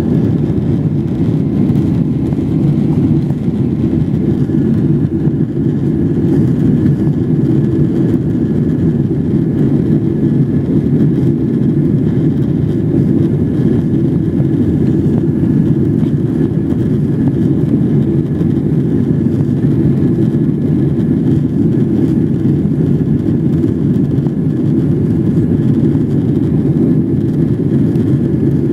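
Cabin noise inside a Boeing 777-300ER: a steady deep roar of its GE90 jet engines and rushing air, with a faint steady whine above it.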